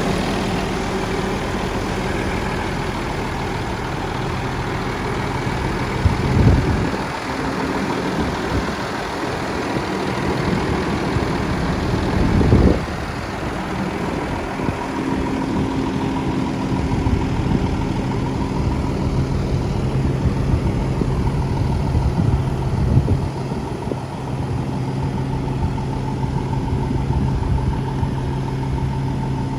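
Diesel engine of a Peterbilt 320 garbage truck running steadily at idle, with two brief louder surges about six and twelve seconds in.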